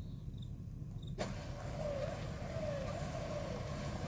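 Truck winch powering out its cable: it starts abruptly about a second in, a steady whirring with a whine that keeps sliding down in pitch, over a low engine idle.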